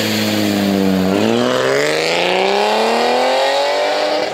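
Car engine holding a steady note for about a second, then climbing steadily in pitch over about three seconds as the car accelerates away.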